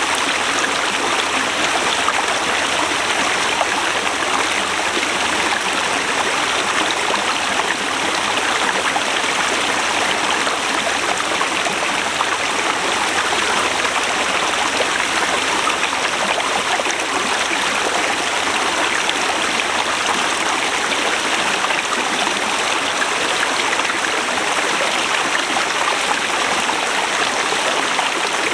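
Forest river rushing steadily over rocks: a constant, even wash of flowing water.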